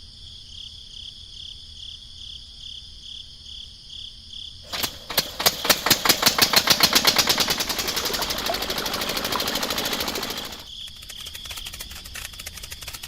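A rapid mechanical rattle of sharp clicks, about ten a second, starts about five seconds in, blurs into a steadier buzz and cuts off suddenly near the end. Under it runs a steady high chirring of insects.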